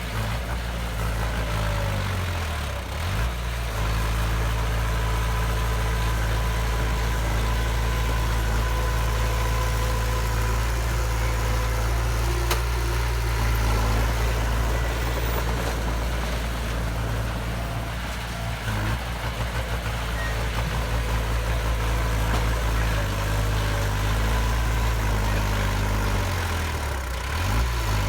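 Diesel engine of heavy earthmoving machinery running steadily at a low, even note. The engine speed dips briefly and recovers about three seconds in and again near the end.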